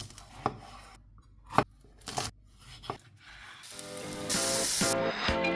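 A few separate knife chops on a cutting board, then background music fades in and builds, with a brief hiss about four seconds in.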